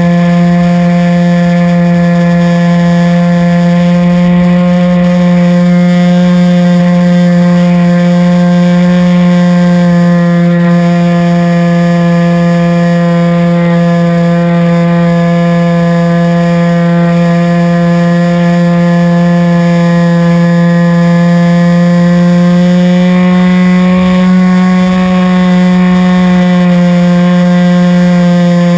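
RC airplane's motor and propeller running in flight with a loud, steady drone, its pitch rising slightly a few times as the throttle changes.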